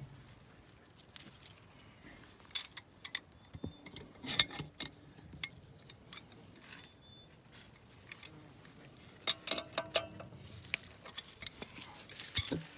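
Scattered clicks, knocks and small metallic clinks of hands and tools handling an irrigation pump's fittings, coming in a few clusters.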